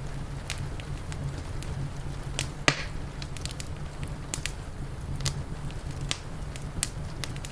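Wood fire crackling, with irregular sharp pops and one much louder snap a little under three seconds in, over a steady low rumble.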